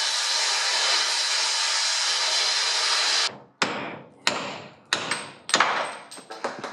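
Steady hiss of an acetylene torch flame heating seized motorcycle linkage bearings, cutting off suddenly about three seconds in. Then about four sharp metallic hammer blows, roughly one every half second, each ringing briefly, as the heated bearings are knocked at.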